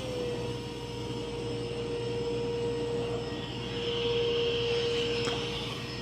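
Mova V50 robot vacuum running on carpet, its suction fan giving a steady whining hum. The whine drops slightly in pitch just after the start as the suction is switched down from max plus to turbo.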